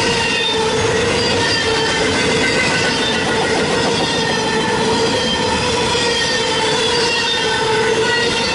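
Norfolk Southern freight train rolling past: a steady, loud rumble of cars on the rails with a sustained squealing tone from the wheels.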